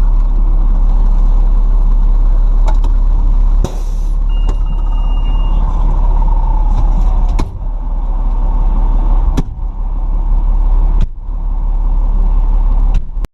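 Steady low rumble of a fire truck's engine heard inside the cab, with a few sharp clicks and a short high beep about four seconds in.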